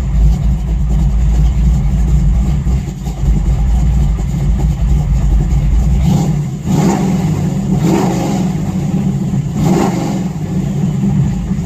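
A 454 big-block V8 with Hooker headers, in a 1953 Ford F100, running at a steady idle, then revved up briefly three times in the second half.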